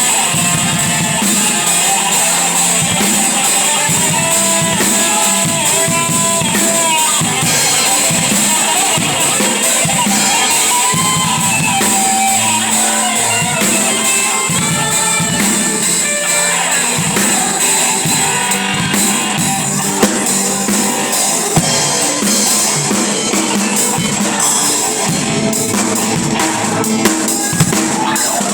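Instrumental band music: a drum kit with bass drum and rimshots plays under a guitar and other pitched instruments carrying a melody.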